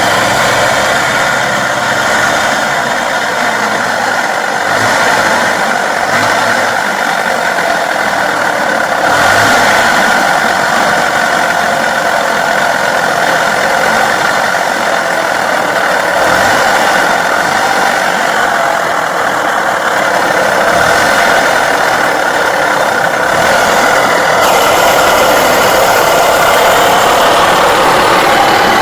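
Tohatsu 4hp two-stroke outboard motor running steadily with a knocking rattle from its bearings, which are really noisy after the motor lay underwater. It gets a little louder about nine seconds in and again near the end.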